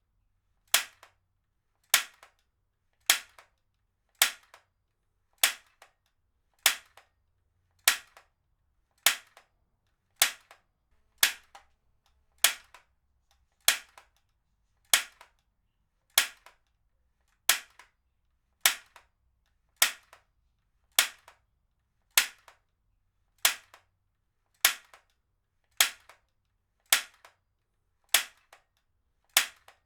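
Heavy-duty stapler being fired over and over at a steady pace, about one staple a second: each a sharp snap followed at once by a fainter click.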